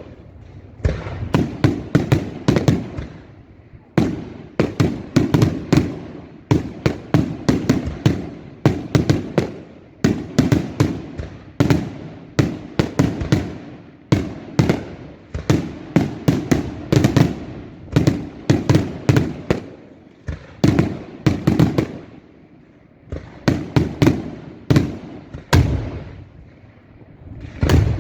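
Daylight fireworks: volley after volley of aerial shell bursts, sharp bangs fired in rapid clusters. Each cluster trails off before the next begins a second or two later.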